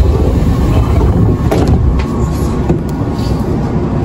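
Interior running noise of a Nankai 1000 series (50-subseries) electric train car in motion: a steady low rumble from the wheels and underfloor equipment, with a few brief clicks and rattles.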